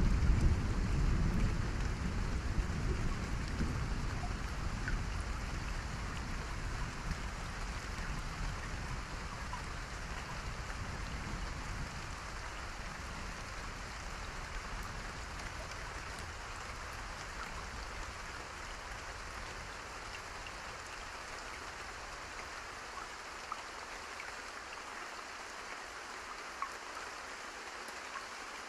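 Steady rain, an even hiss of drops. A low rumble at the start dies away over about the first ten seconds.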